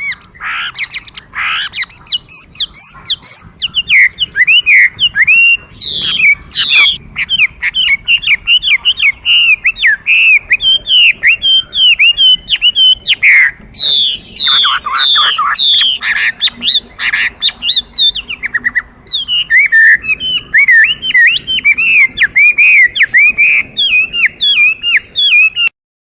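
Chinese hwamei singing a loud, fast, varied song of slurred whistled notes, almost without pause; the song cuts off suddenly near the end.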